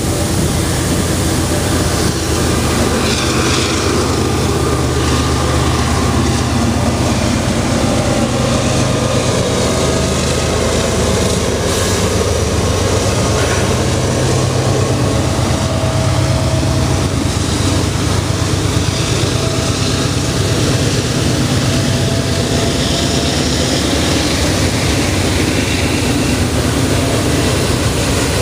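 Freight train passing close by, led by a Canadian Pacific diesel locomotive. The locomotive's engine drone is strong for roughly the first 17 seconds and then falls back, leaving the steady rumble and rush of freight cars rolling past on the rails.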